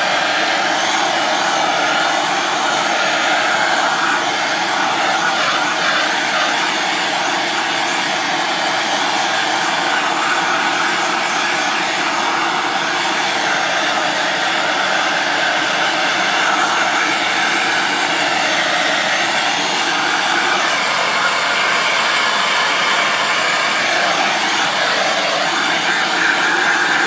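MAP gas hand torch burning steadily with a continuous flame roar as it melts wax. It is shut off suddenly at the very end.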